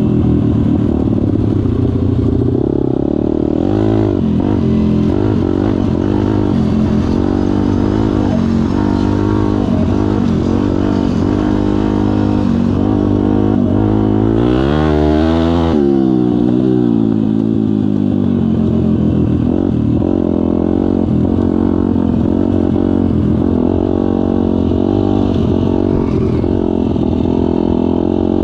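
Kayo Pro pit bike's single-cylinder engine running under riding throttle, its pitch wavering as the throttle changes, with one clear rev up and back down about halfway.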